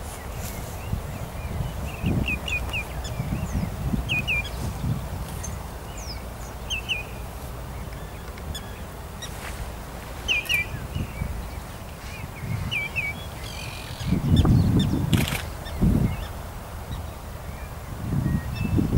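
Wild birds calling at a wetland: short, quick double chirps repeated every second or two, over low rumbling that swells about three-quarters of the way through.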